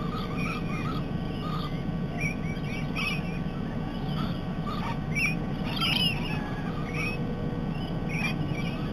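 A flock of parrots chattering and squawking in quick, scattered short calls, over a steady low hum.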